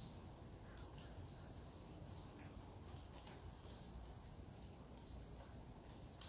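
Faint outdoor ambience: a low steady rumble with scattered short, high bird chirps.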